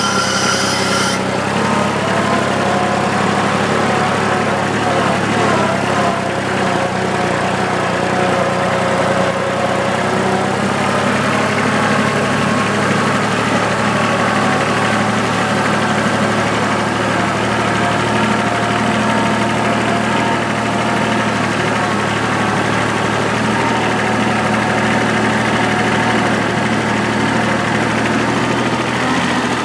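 Tractor engine running at a steady speed, its pitch wavering slightly during the first ten seconds or so. A brief hiss comes right at the start.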